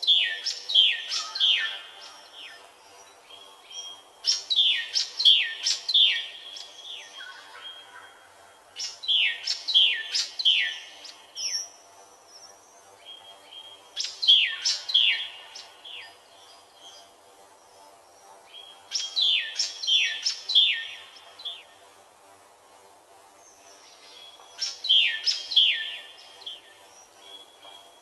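A songbird singing the same short phrase over and over: a quick run of five or six high notes, each sweeping downward, repeated about every five seconds.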